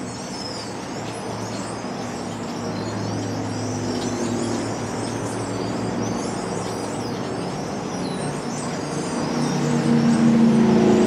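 A large flock of birds chattering and calling at their evening roost, many overlapping high calls, over the steady hum of road traffic; a vehicle grows louder near the end.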